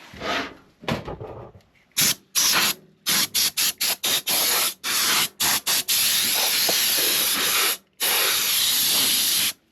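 Compressed air duster spraying, first in short quick puffs from about two seconds in, then in longer hissing blasts of a couple of seconds each, blowing dust out of dirty PC parts.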